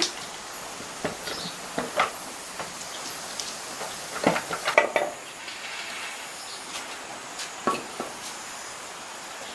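Metal tools and engine parts clinking and tapping in short, scattered knocks, with a cluster of them near the middle, over a steady background hiss.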